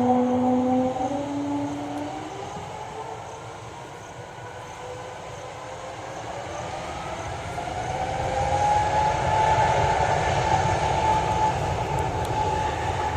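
Airbus A321neo airliner's jet engines: a droning hum that fades over the first couple of seconds, then a rising whine that builds to a loud peak about ten seconds in.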